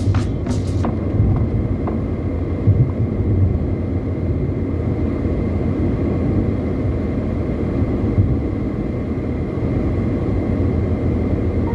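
Steady low rumble of a car driving on the highway, road and engine noise, with a few sharp clicks in the first second.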